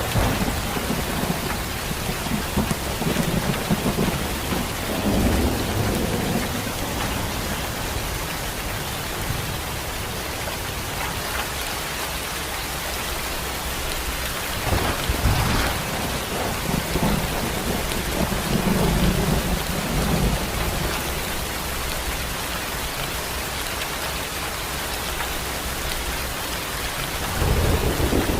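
Steady rain falling, an even hiss, with several low rumbles that swell and fade, the strongest about halfway through and near the end.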